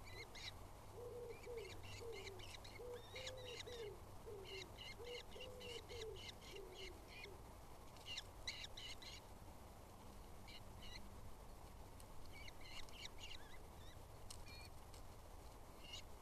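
Faint birdsong. For the first half, a bird gives a run of low, wavering notes in quick succession. Throughout, small birds give clusters of short, high chirps.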